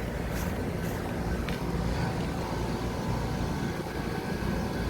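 Outdoor central air conditioner condensing units running: a steady hum of condenser fans and compressors.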